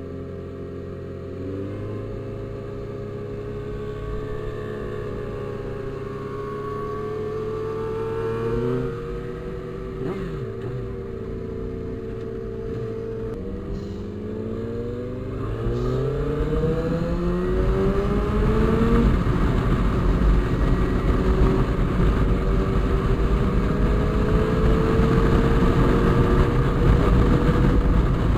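Motorcycle engine running and being revved. Its pitch climbs briefly about 8 seconds in, drops back, then climbs steadily for about five seconds and is held high and louder to the end.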